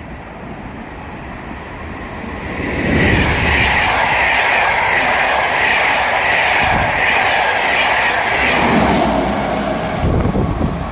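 A train passing through a station at speed. Its sound swells about two and a half seconds in and stays loud for about six seconds, with a high steady ringing of wheels on rail and a few knocks of wheels over rail joints.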